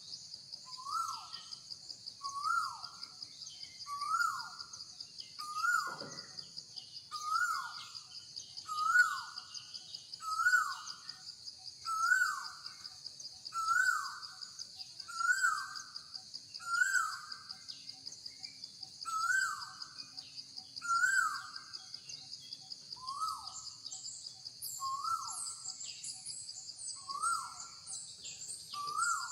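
A bird repeating one short call that falls in pitch, about once a second, over a steady high insect drone.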